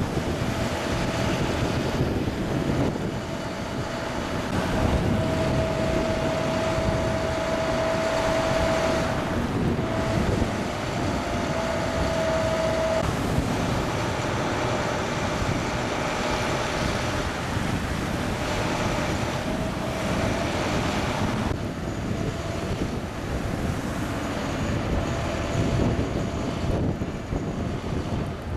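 Wind buffeting the microphone over steady traffic noise on a snowy highway, with a faint steady whine that comes and goes.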